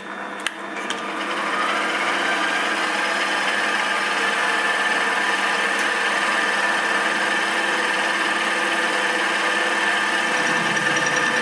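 Milling machine switched on with a click, its spindle and homemade fly cutter spinning up with a rising whine over a second or two, then running steadily.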